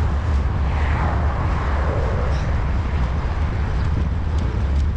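Wind rumbling steadily on the microphone while riding a road bicycle. From about one to two seconds in, a fainter sound falls in pitch.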